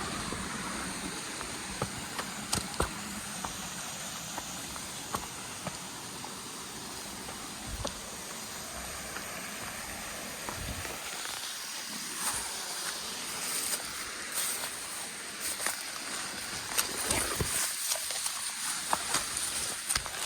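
Footsteps and brushing through vegetation on a forest trail, scattered steps that become more frequent about halfway through, over a steady hiss of running stream water.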